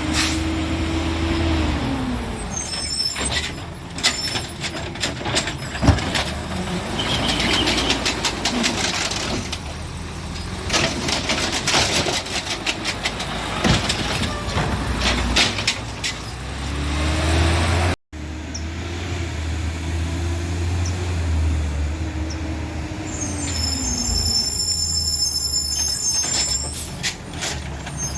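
Garbage truck at work: its diesel engine running and revving up and settling twice, with clattering and knocks and the hiss of air brakes.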